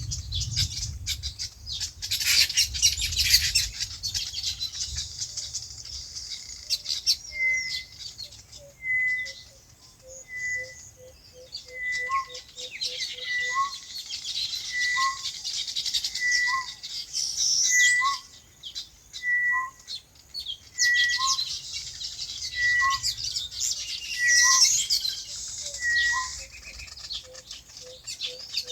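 Many small birds chirping in a dense, high chatter. Through the middle, one bird repeats a short call about every second and a half.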